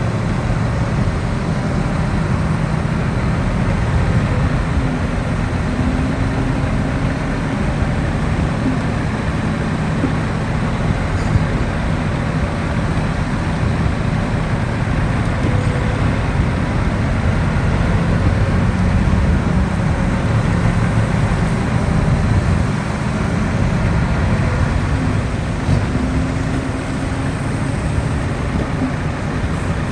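Heavy diesel earthmoving machinery running steadily, its engine pitch rising and falling slightly as it works.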